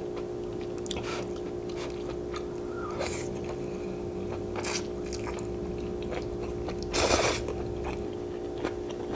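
Close-up chewing of a mouthful of sweet-potato-starch glass noodles (japchae), with small wet mouth clicks, over a steady low hum. One louder, brief noise about seven seconds in.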